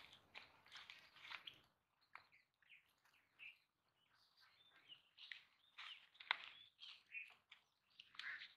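Faint, scattered bird chirps, with a short rustle of brush near the start and a few light clicks.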